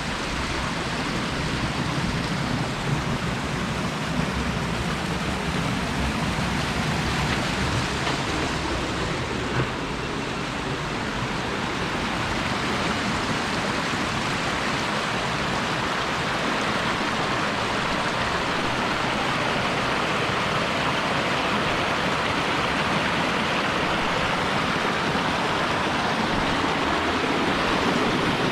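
Mountain stream running down a rocky drainage, a steady rush of water.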